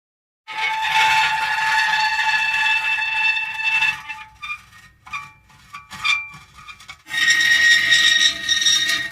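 Metal creaking: long, drawn-out squeaking creaks, broken around the middle by a few seconds of shorter, irregular creaks before a long squeal starts again.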